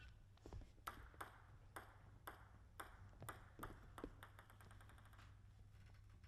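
Table tennis ball clicking on the table and rackets, about eight sharp hits in an uneven rally rhythm, stopping about four seconds in; a faint low hum from the hall lies underneath.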